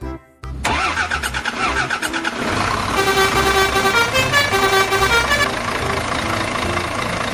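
A vehicle engine starting and running, with a steady horn-like tone sounding over it from about three seconds in.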